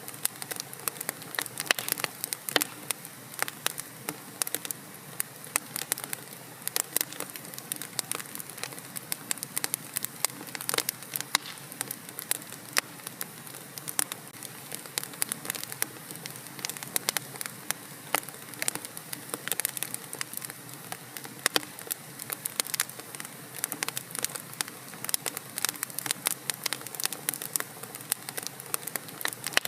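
Wood fire in a fireplace crackling, with irregular sharp pops and snaps, several a second, over a steady soft hiss.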